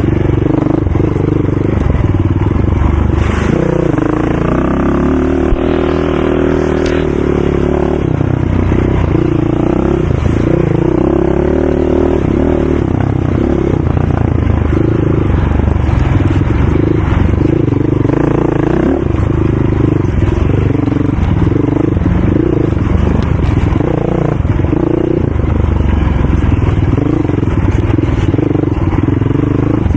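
ATV engines running loud, their pitch rising and falling as the riders throttle on and off.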